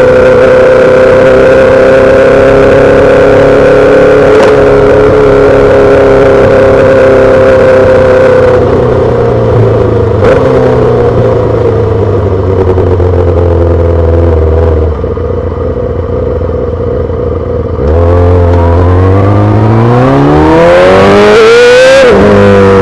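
A 2008 Yamaha R6's inline-four engine through a full SC-Project exhaust, held at steady revs, then falling off as the throttle closes and running quieter and lower for a few seconds. It then revs up in a long rising sweep, and the pitch drops suddenly near the end as it shifts up a gear.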